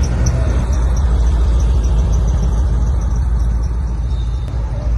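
A car's engine running with a loud, steady, deep rumble.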